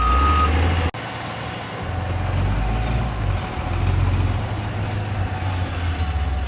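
Heavy diesel engine of road-construction machinery running with a deep, steady rumble. A short electronic beep sounds right at the start.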